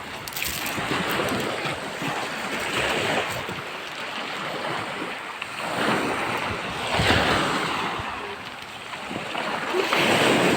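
Sea waves washing onto the shore, the hiss of the surf swelling and falling back every few seconds.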